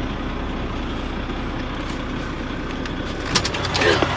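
Semi truck's diesel engine idling steadily, heard from inside the cab as a low, even rumble. A few sharp clicks and a brief vocal sound come near the end.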